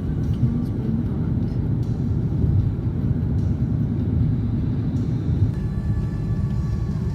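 Steady low road and engine rumble inside a moving car, with faint steady tones joining near the end.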